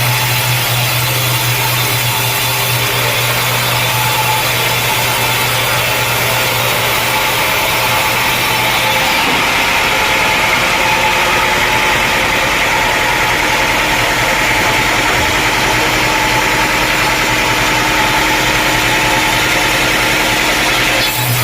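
Sawmill engine running steadily at a constant level. A low hum drops away about nine seconds in and comes back near the end.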